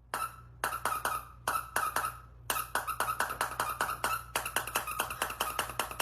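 A rapid run of short, sharp squeaks, several a second, with a brief pause about two seconds in, over a steady low hum.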